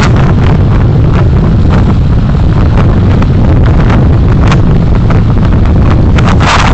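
Driving noise from a moving car picked up by a dashcam: a loud, steady low rumble of road and engine, with frequent small knocks and rattles. A brief louder hiss comes near the end.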